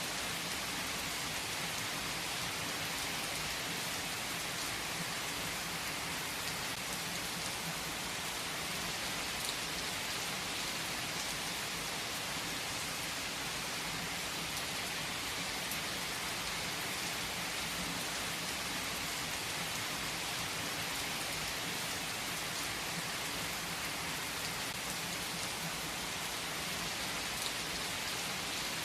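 Steady rain falling, an even hiss with a few sharper drop ticks and no distinct thunderclap.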